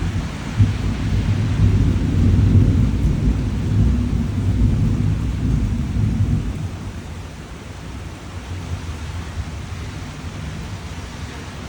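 Steady rain with a long, low roll of thunder that rumbles through the first half and dies away about six seconds in, leaving the rain alone.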